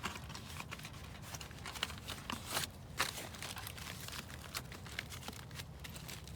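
Irregular crackling and crinkling, a few sharper cracks standing out about two and a half and three seconds in, over a low steady hum.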